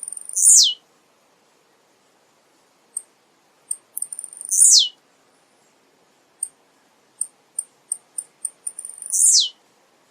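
Male blue-black grassquit (tiziu) singing: runs of short, high ticking notes, each ending in a loud, falling note, three times about every four and a half seconds.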